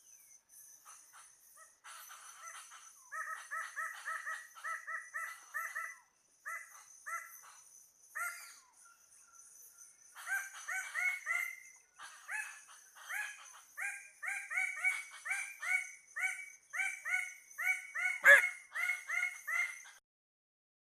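Birds-of-paradise calling: runs of loud, harsh, honking notes repeated about three a second, one run starting about three seconds in and a busier stretch from about ten seconds, against a steady high insect whine. A sharp knock about eighteen seconds in, and the sound cuts off just before the end.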